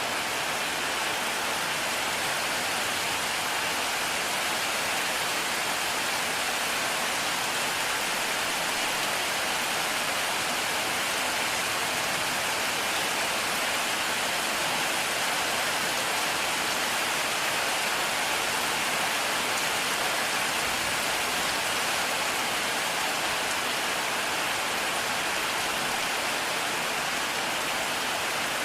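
Heavy rain falling steadily, an even unbroken wash of sound with no thunder.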